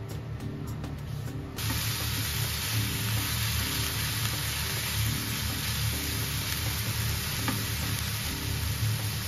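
Sliced pork and green peppers sizzling in a frying pan, a steady hiss that starts suddenly about a second and a half in. Background music plays throughout.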